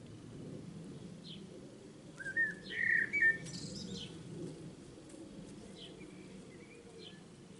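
Small birds chirping: short high chirps every second or two, with a louder warbling call about two to three seconds in, over a steady low background rumble.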